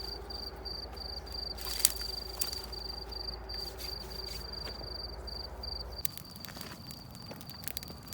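An insect trilling in a steady, rapid pulse that drops away about six seconds in, with scattered light clicks and rustles.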